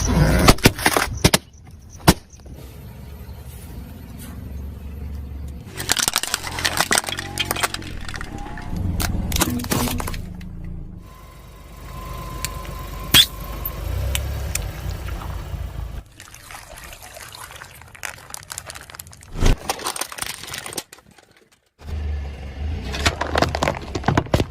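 Car tyre rolling over and crushing objects in a string of short clips: sharp cracks and crunches over a low rumble of the car, with abrupt cuts between clips.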